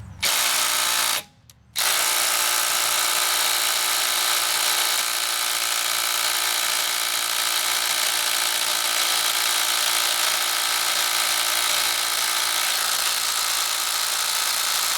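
Ridgid brushless impact driver hammering on a lug nut on speed 3: a short burst, a brief stop, then about thirteen seconds of steady hammering. The lug nut, torqued to 100 ft-lb, does not break loose.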